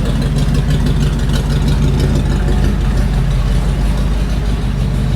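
Engine of a rat-rod build idling steadily on its first run, just timed to about 10 degrees at idle and running on all cylinders.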